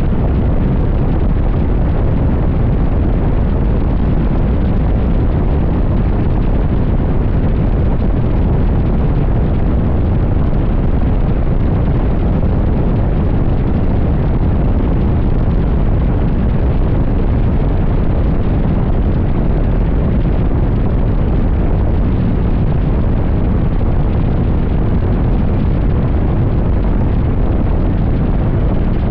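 Wind buffeting a motorcycle rider's microphone at highway speed: a loud, steady, low rushing noise with no breaks.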